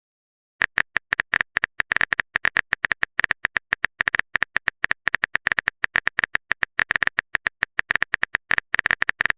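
Typing sound effect: a rapid, irregular run of sharp keyboard-style clicks, starting about half a second in and continuing without a break.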